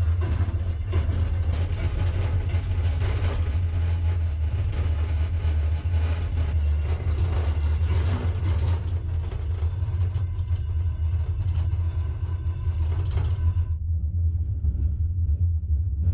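Steady low rumble of a moving vehicle with a haze of running noise above it. The upper noise cuts off suddenly near the end, leaving the low rumble.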